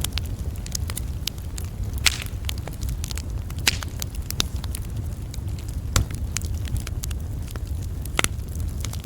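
Wood campfire crackling: a dense run of sharp pops and snaps, a few louder ones about two, four, six and eight seconds in, over a steady low rumble.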